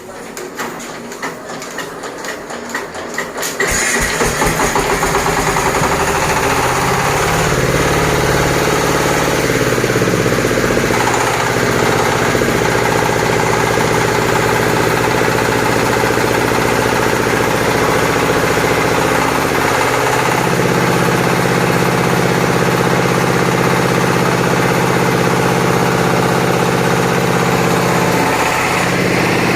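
Welder generator's petrol engine cranking with rapid even knocks for a few seconds. It catches about four seconds in, picks up speed and settles into steady running.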